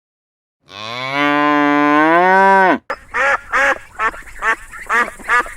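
A cow gives one long moo that rises slightly in pitch. Then, after a break, waterfowl call in a quick run of short calls, about three a second.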